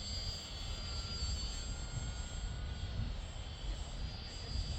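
Radio-controlled model airplane's motor giving a steady high drone in flight, with strong wind rumbling and buffeting on the microphone.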